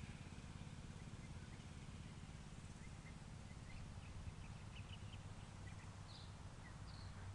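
Faint, distant dirt bike engine running steadily as a low pulsing hum, with a few faint bird chirps from about three seconds in.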